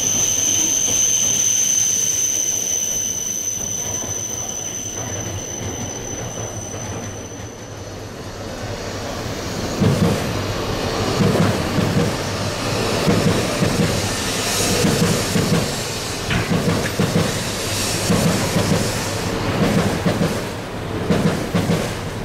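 Shinkansen trains moving out over the station points. A high steady whine fades away over the first several seconds as one train pulls away, then from about ten seconds in the wheels of an E4 Max double-decker set knock over the rail joints and points in a steady rhythm of a little more than one clack a second.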